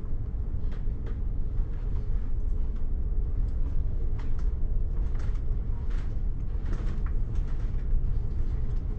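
Bus interior on the move: a steady low engine and road rumble with a constant hum above it, and short rattling clicks every second or so.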